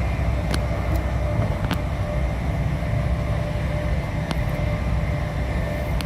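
Passenger train running, heard from inside the carriage: a steady low rumble with a faint steady whine and a few sharp clicks.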